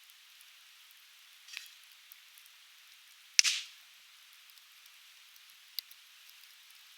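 Conifer firewood burning, crackling over a steady hiss. There is one loud sharp pop about halfway through, with a short hiss after it, and smaller pops around a second and a half in and near the end.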